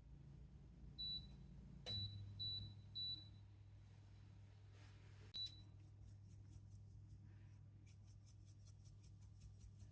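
Electronic beeps from a household appliance's control panel: one beep, then a click with three quick beeps about two seconds in as a low steady hum starts, and one more beep a few seconds later. Faint fast ticking runs over the hum near the end.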